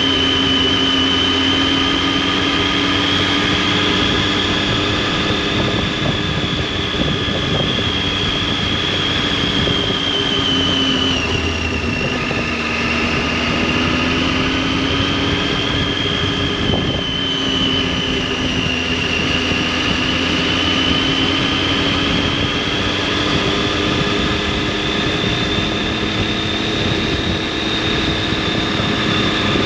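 Triumph Tiger 800's three-cylinder engine and exhaust running under way, with a high whine riding above the engine note. The pitch eases down about a third of the way in, climbs again, dips once more past the middle and rises steadily toward the end as the throttle is worked.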